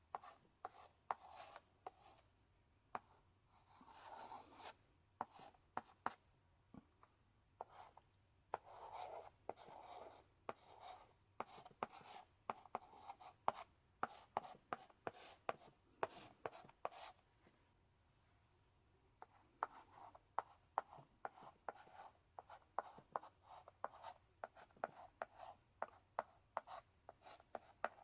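Chalk in a chalk holder writing on a blackboard: a quick run of sharp taps and short scratching strokes, stopping for a second or two about two-thirds of the way through before writing resumes.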